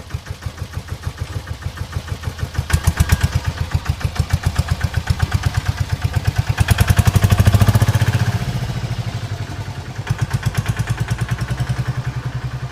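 Small engine of a homemade mini tractor running with a rapid, even chugging beat. It picks up speed and gets louder about seven seconds in, then settles back.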